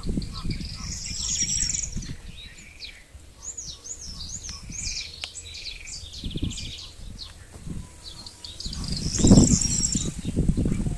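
Small birds chirping in quick runs of short, high notes, over low, uneven rustling noise that is loudest about nine seconds in.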